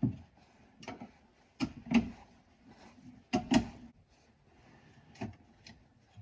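Scissor jack being cranked up with a tire iron hooked into its screw: irregular metal clanks and knocks, loudest about two seconds and three and a half seconds in.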